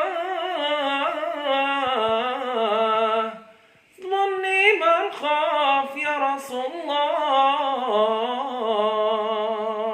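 A solo male voice sings an unaccompanied Moroccan Issawa mawwal (aroubi), drawing out long melismatic vowels with wavering ornaments. It pauses briefly for breath about three and a half seconds in, then sings a second long phrase.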